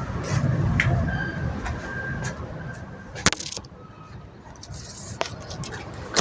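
Outdoor nature ambience: a steady low rumble with a few short bird calls and two sharp clicks, one about halfway through and one near the end.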